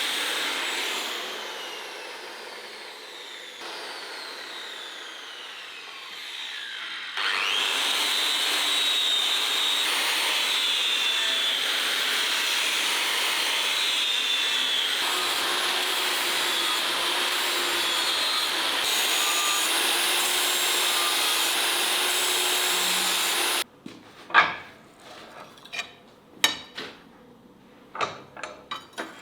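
An electric grinder slows down over the first few seconds, speeds up again about seven seconds in and runs steadily, then cuts off suddenly near the end. A few light knocks and clinks follow.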